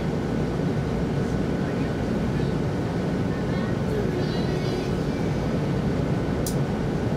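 Cabin noise of an E2 series Shinkansen running at speed: a steady low rumble with a faint steady high tone over it, and one sharp click about six and a half seconds in.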